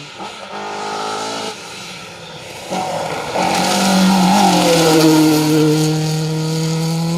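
Rally car engine at high revs coming through, loudest a little past halfway with a hiss of tyre noise. Its note then drops slowly as the car goes by.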